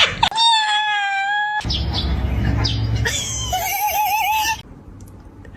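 An animal calling: one long, high, nearly steady note, then a wavering, trilling call that breaks off suddenly.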